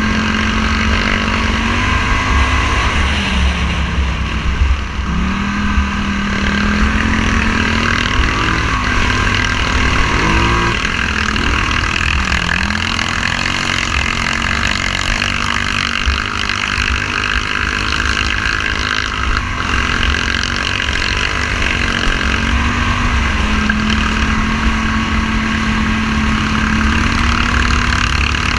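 Motorcycle engine running under way, its pitch mostly steady but dropping and climbing again several times as the throttle is rolled off and back on, over a heavy low rumble.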